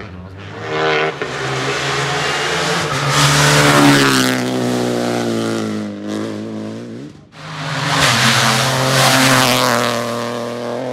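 Rally car engine revving hard as the car drives past, its pitch rising through the gears and dropping at each shift. About seven seconds in the sound breaks off sharply, and then a rally car engine revs hard again.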